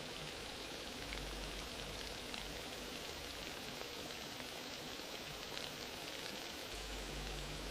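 Wood fire crackling, with a steady hiss and many small pops throughout.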